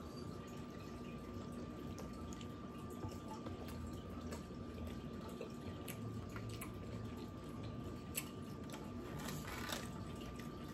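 Close-up chewing of a hard-shell taco whose shell has gone somewhat soft: quiet chewing with scattered wet mouth clicks. A faint steady hum runs underneath.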